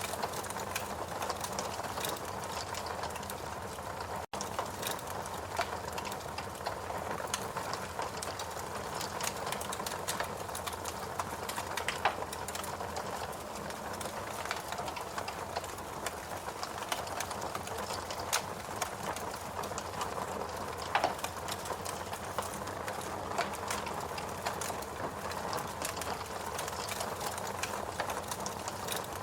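Fireplace crackling: irregular small snaps and pops over a steady hiss, with a few louder pops. The sound cuts out for an instant about four seconds in.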